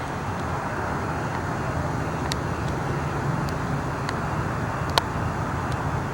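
Steady low outdoor rumble, like distant traffic or engines, with a few faint clicks, the sharpest about five seconds in.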